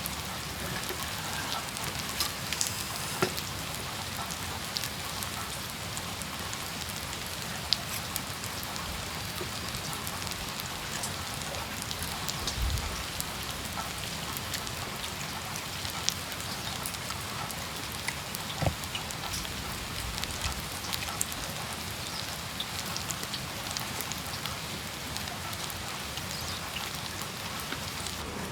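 Steady rain falling, with scattered individual drops ticking on nearby surfaces.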